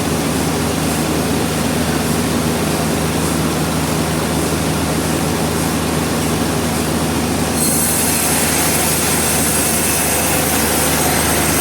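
Sawmill machinery running: a steady motor hum under loud, continuous sawing noise, with a higher hiss and whine coming in about eight seconds in.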